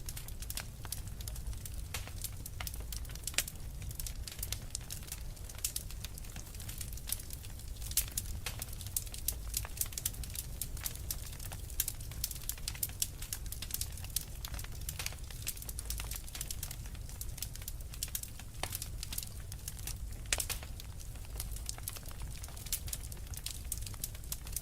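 Wood fire burning in a fireplace: a steady low rumble with dense, irregular crackling and popping of the logs, busiest in the middle.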